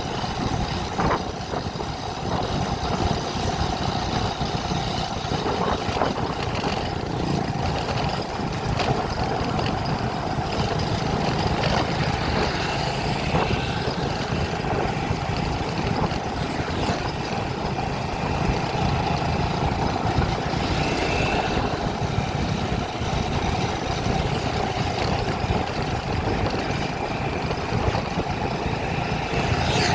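Vehicle running steadily on the road, a constant mix of engine and road noise without breaks.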